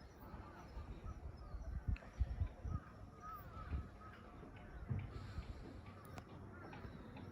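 Birds chirping repeatedly in short curved calls. Low rumbling thumps come about two seconds in and again near five seconds, and they are the loudest sounds here.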